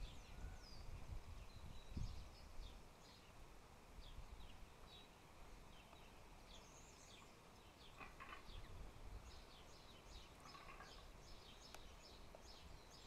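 Faint birds chirping: many short, high calls scattered throughout, over a low background rumble that is heaviest in the first two seconds.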